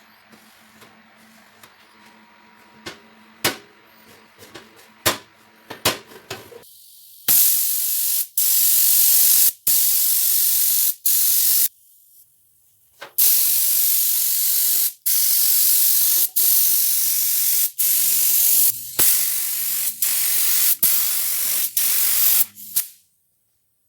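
A few light clicks of handling, then a pressurised spray hissing in a series of spurts with short breaks, starting about seven seconds in and stopping just before the end.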